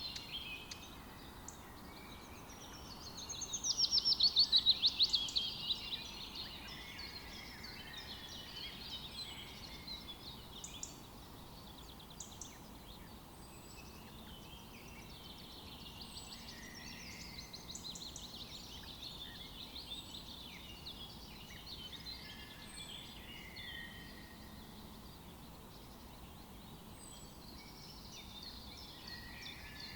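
Several birds chirping and singing over a faint steady outdoor hiss. About three seconds in comes one loud, rapid trill of quickly repeated notes lasting a few seconds, and short high chirps recur every couple of seconds.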